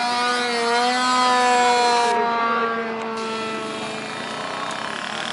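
RC model airplane's motor and propeller running with a steady, buzzing drone as it flies past. It is loudest about a second and a half in, then fades as its pitch falls slightly.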